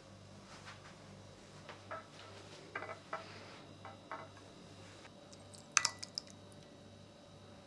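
Scattered light taps and clicks of small household objects being handled, with a sharper cluster of clinks about six seconds in, over a faint steady hum.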